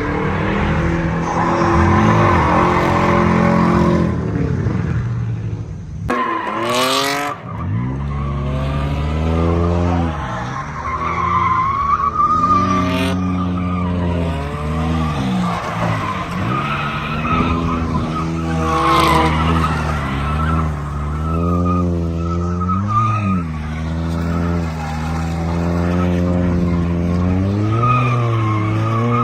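A car spinning its tires: the engine revs up and drops back again and again, every second or two, over a steady tire squeal, with a short drop in the revs about six seconds in.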